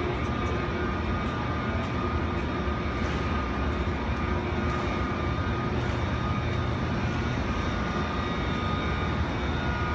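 KTX high-speed train moving past along the station track: a steady loud hum and rumble with a constant high-pitched whine over it.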